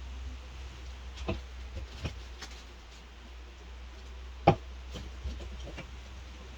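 A few scattered light knocks and clicks, the sharpest about four and a half seconds in, over a steady low hum.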